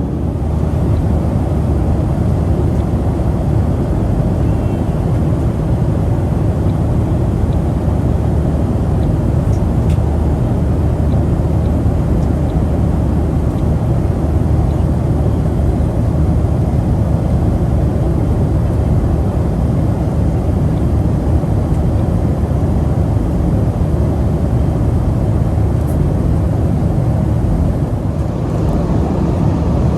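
Steady roar of jet engines and rushing air heard inside the cabin of a Boeing 737-700 airliner in flight, heaviest in the low end, with no breaks or changes.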